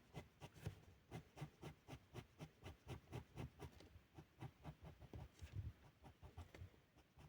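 Felt-tip pen rubbing on paper in quick repeated strokes, about three or four a second, faint.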